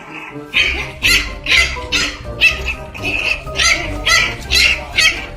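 A small dog barking angrily in short bursts, about two a second, over background music.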